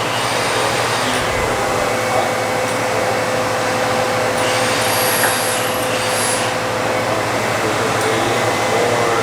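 Steady whirring machine noise with a constant underlying hum and a faint steady tone.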